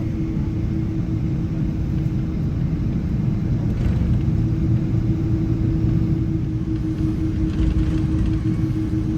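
Steady low cabin rumble inside a Boeing 777 on the ground before takeoff, its engines running with a constant droning hum over it.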